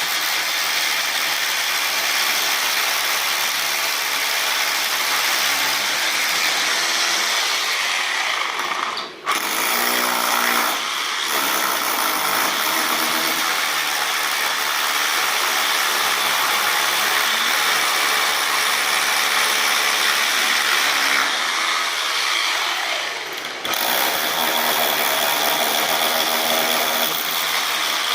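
Carpenter's electric woodworking power tool running almost continuously. It cuts out briefly about nine seconds in and spins back up.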